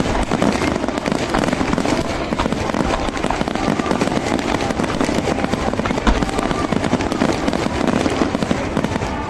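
Fireworks display: a dense, continuous barrage of bangs and crackling, with a heavier boom about six seconds in.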